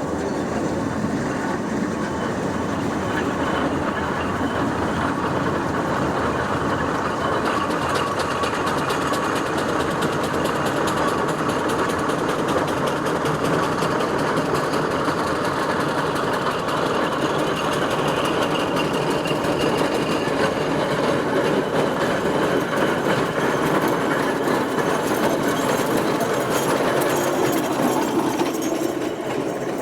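Steam traction engine travelling along the road, running with a steady, fast rhythmic beat and mechanical clatter.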